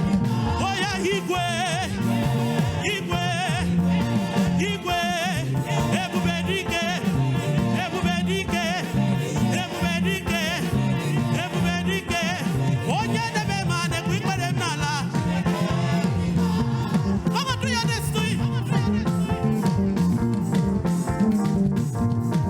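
Live gospel praise-and-worship music: voices singing over a band with a bass line that moves note by note.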